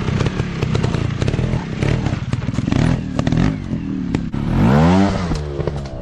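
Dirt bike engine running with frequent sharp clatter, then revving up and back down about three-quarters of the way through.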